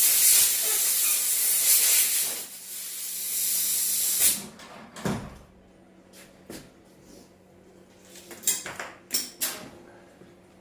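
Compressed air hissing as it is blown through a cleaned moped carburettor jet, in two blasts lasting about four seconds in all. It is followed by a few light clicks and taps of small parts being handled.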